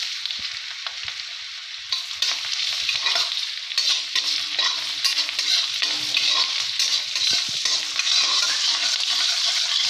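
Chopped onion sizzling in oil and butter in an iron kadai, stirred and scraped around the pan with a spatula. The sizzle is a little quieter for the first two seconds, then livelier.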